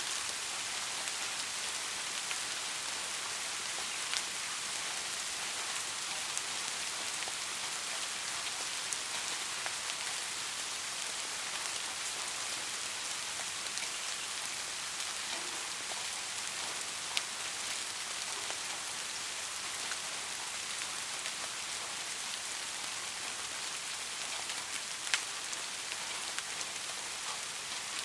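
Steady rain falling, a dense even hiss with occasional louder single drops ticking out of it.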